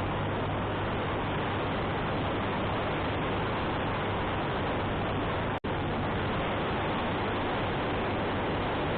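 Wind rushing over the microphone of a moving motorcycle, with the motorcycle engine's steady low hum underneath. The sound cuts out for an instant about five and a half seconds in.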